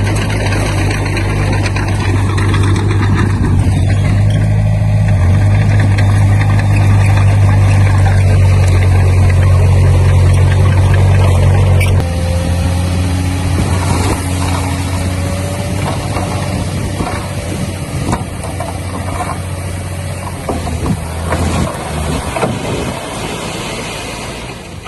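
Heavy construction machine's diesel engine running steadily. About halfway through the sound changes suddenly to a quieter engine note with scattered knocks and clanks.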